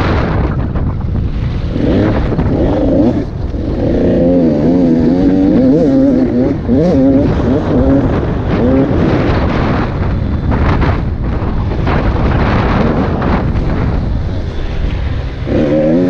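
KTM SX 85 two-stroke single-cylinder motocross engine under riding load, its revs repeatedly rising and falling with short drops off the throttle. Heavy wind buffeting on the microphone runs underneath.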